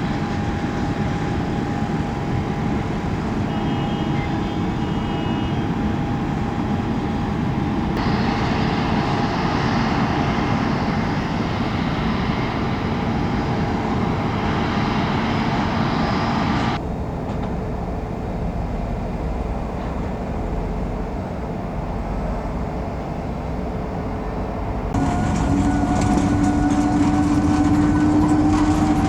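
A train running with a steady rumble and a thin whine. The sound changes abruptly three times, about 8, 17 and 25 seconds in. After the last change a low hum rises slowly in pitch.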